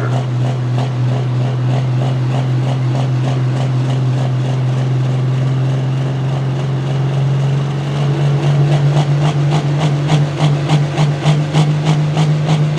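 Super stock pulling tractor's turbocharged diesel engine running steadily at high idle, then rising a little in pitch and becoming more pulsing about eight seconds in as the revs come up.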